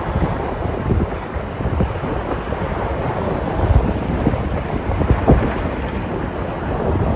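Sea surf breaking and washing, a continuous rush with irregular swells, with wind buffeting the microphone in low rumbles.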